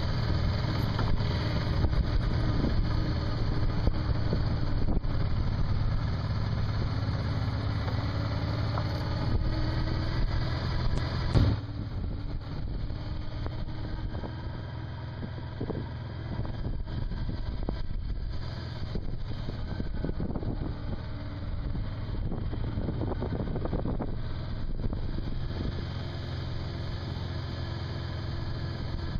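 Motorcycle running on the road, its steady engine hum mixed with wind and road noise. A sharp knock comes about eleven seconds in, and the sound is somewhat quieter after it.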